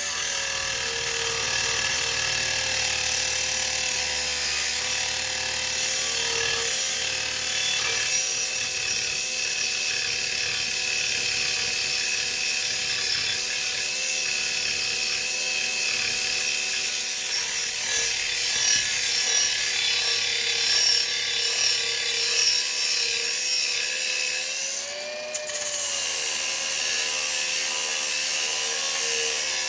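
Bauer cordless power tool running steadily against the aluminum rim, its motor pitch wavering slightly, on a battery that, by the owner's account, barely keeps it going. About 25 seconds in the motor is let off briefly and spins back up.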